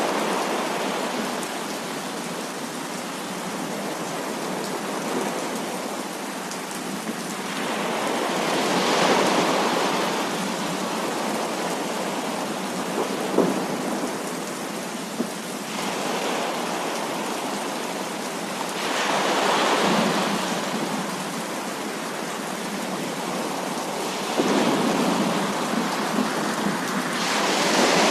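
Heavy thunderstorm rain pouring steadily. It swells louder three times, about a third of the way in, about two-thirds of the way in, and again near the end, with a couple of brief sharp clicks in between.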